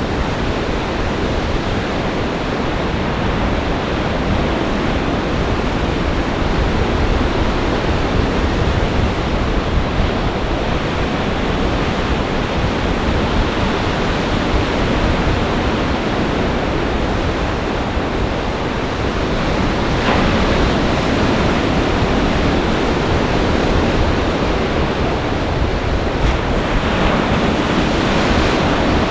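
Lake Michigan storm waves breaking and surging in a gale: a loud, steady wash of surf with wind buffeting the microphone, swelling a little about two-thirds of the way in.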